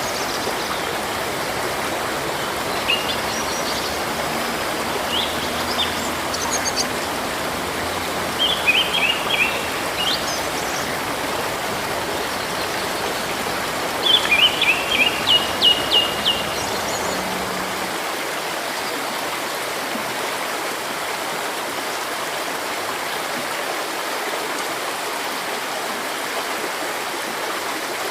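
Steady rushing of stream water, with birds calling in short clusters of quick high chirps during the first half. The loudest cluster comes about fourteen seconds in, and after that only the water is heard.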